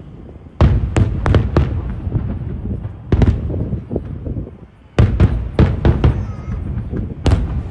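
Aerial fireworks shells bursting in volleys of sharp bangs, several in quick succession, with a low rumble rolling between them. One more loud bang comes near the end.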